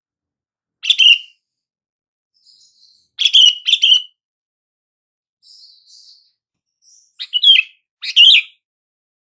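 Sooty-headed bulbul (kutilang) calling: short, loud, bright phrases, one about a second in, a pair near the middle and another pair near the end, with fainter soft notes between them. This is the call used to lure other bulbuls and draw a quiet bird into answering.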